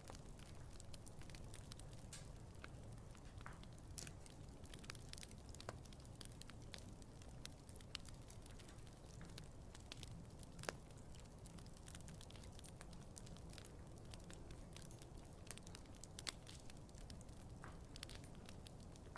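Wood fire crackling faintly: scattered sharp pops and snaps over a low steady rumble, with one louder pop about ten seconds in.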